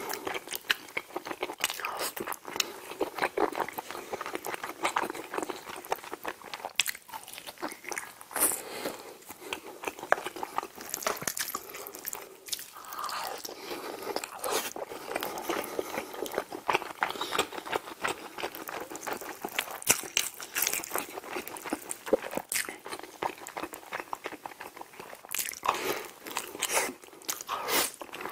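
Close-miked eating sounds: a person biting and chewing smoked chicken drumsticks coated in rosé cream sauce, a continuous run of small wet clicks and crunches.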